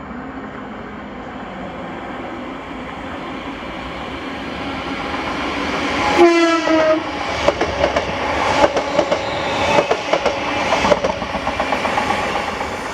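ScotRail passenger train arriving at the station, its rumble building. About six seconds in it sounds one short horn blast, then its wheels click over the rail joints as it runs along the platform.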